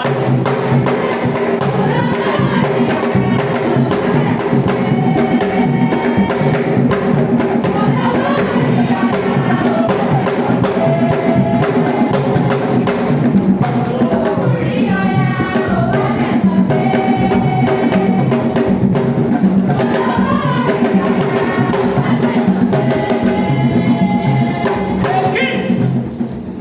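Drumming with group singing: a dense, steady percussion rhythm under several voices singing together.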